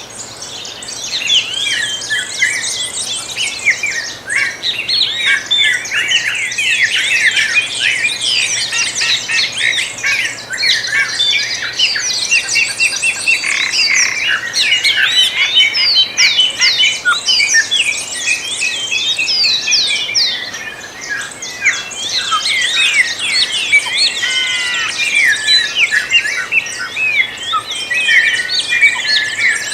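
Dawn chorus: many songbirds singing and chirping at once, a dense, continuous tangle of quick high chirps and trills.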